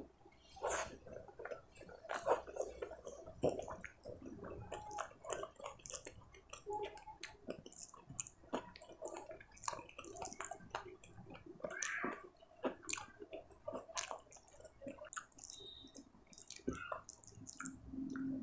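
Close-miked wet eating sounds: chewing, lip smacks and squelches of a mouthful of rice and paneer curry eaten by hand, in quick irregular clicks. Around the middle, fingers squish food together on the plate.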